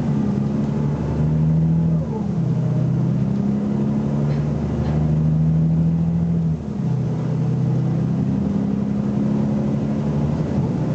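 BMC Belde 220-SLF city bus's diesel engine pulling hard under full-throttle acceleration, its note climbing and then dropping as the automatic gearbox shifts up, twice: about two seconds in and again near seven seconds.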